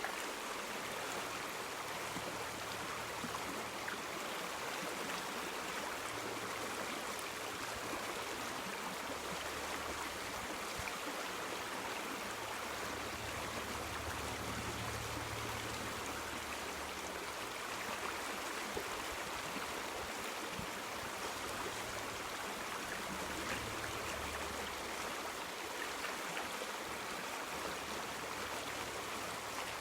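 River water flowing steadily, a continuous rushing and gurgling, with a faint low rumble that swells and fades a couple of times.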